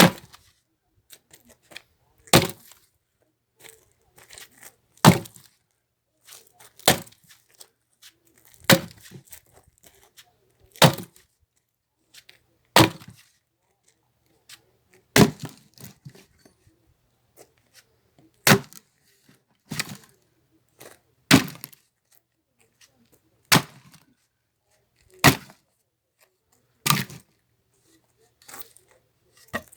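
Axe splitting firewood: a dozen or so sharp, cracking strikes on wood, about one every two seconds.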